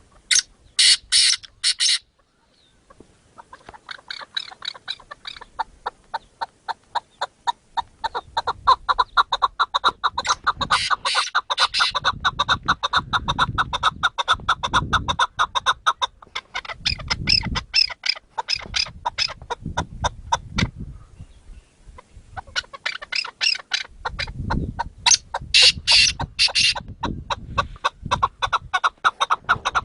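Chukar partridges calling: long runs of rapid, repeated clucking notes, with louder, higher bursts near the start, about halfway and again near the end.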